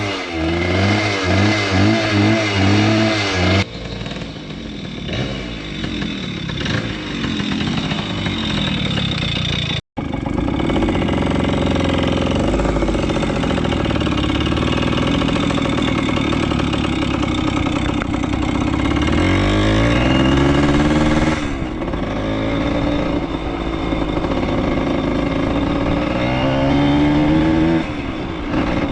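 Small motorcycle engine running under way while ridden, its pitch climbing and dropping back a few times as it accelerates and shifts.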